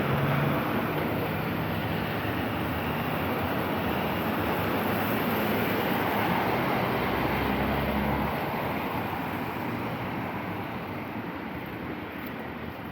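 Motor traffic passing on a rain-wet street, a steady rush of tyre and engine noise that fades away over the last few seconds.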